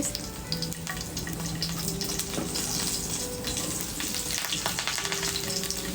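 Steady sizzling and crackling of food cooking over a wood fire, a continuous hiss dotted with small pops.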